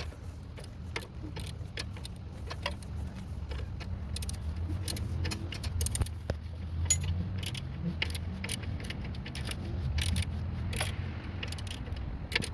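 Irregular metallic clicks and clinks of a wrench working a bolt loose in a car's engine bay, over a steady low rumble.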